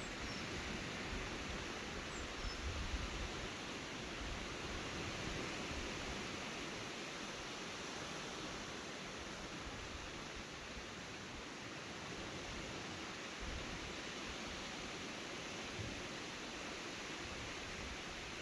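Steady rushing noise of wind and choppy sea water, with low, uneven wind buffeting on the microphone.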